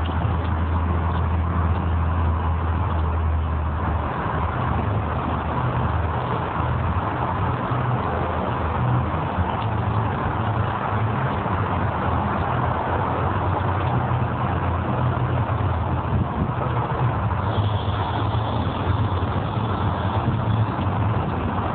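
Storm wind blowing across the microphone: a steady low rumble under a hiss, fluttering unevenly after the first few seconds.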